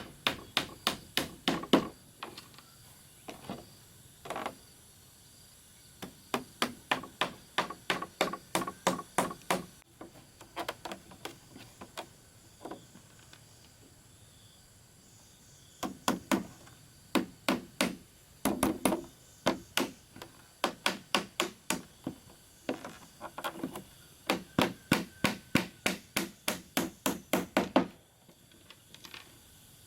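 Hammer blows on wood in quick, steady runs of about three strikes a second, broken by short pauses.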